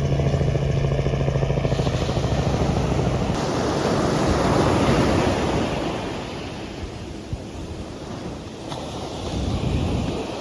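Sea waves washing onto the beach: a swell builds and breaks about four to five seconds in, and another comes near the end. For the first three seconds a steady engine hum runs underneath, then stops.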